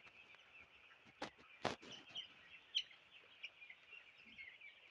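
Six-day-old chicks peeping continuously, many small high chirps overlapping, with two sharp clicks about a second and a half in.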